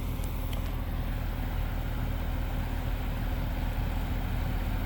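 Combine harvester running steadily while cutting soybeans: a low, even engine drone with a steady hum.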